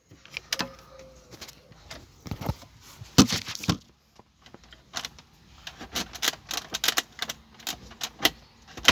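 Parts of a Mercedes C-Class sunroof being worked loose by hand: irregular clicks, knocks and rattles, loudest about three seconds in, with a dense run of quick clicks in the last few seconds.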